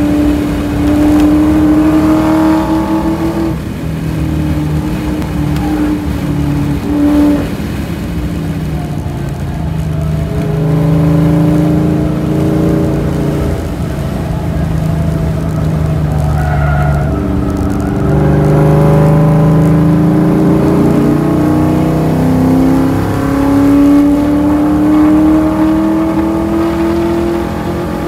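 Ford Mustang engine heard from inside the cabin under hard driving, its pitch climbing as it pulls and dropping sharply several times at gear shifts and lifts, over wind and tyre noise.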